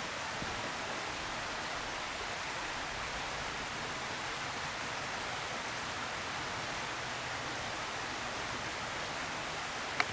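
Steady, even outdoor hiss with no distinct sound in it, and one sharp click near the end.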